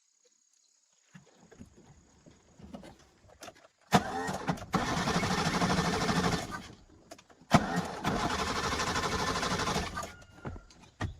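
Car engine being cranked by its starter motor in two tries of about three seconds each, with a short pause between them.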